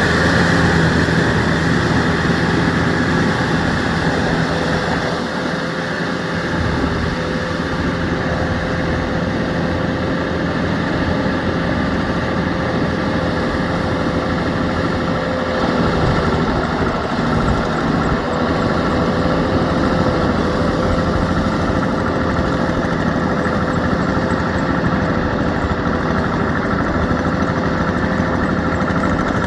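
Yanmar EF725T tractor's diesel engine running steadily at a constant speed, with a held drone and no change in revs.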